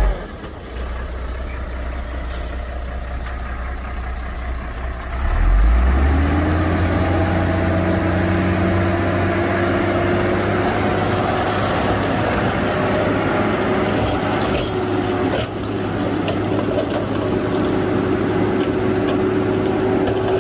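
Heavy diesel engine of earth-moving machinery running. About six seconds in it revs up, its pitch rising, and it then holds steady at the higher engine speed.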